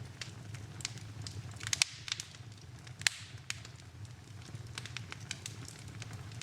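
Wood fire in a fireplace crackling, with irregular sharp pops over a low steady rumble of the flames; the loudest pops come a little under two seconds in and about three seconds in.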